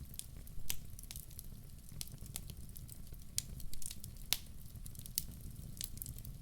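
Wood fire in a fireplace crackling, with irregular sharp snaps and a few louder pops over a steady low rumble.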